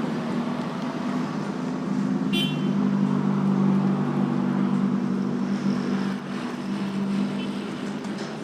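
Road traffic at a busy junction: vehicle engines running steadily in a low hum, with a short high beep about two and a half seconds in.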